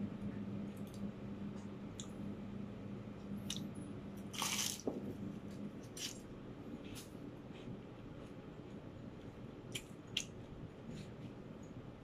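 Close-up chewing and biting of butter-toasted French bread: soft crunches and wet mouth clicks, with one louder crunch about four and a half seconds in.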